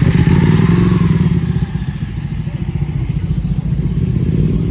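A vehicle engine running with a loud, pulsing low exhaust rumble, loudest in the first second and easing a little after about two seconds.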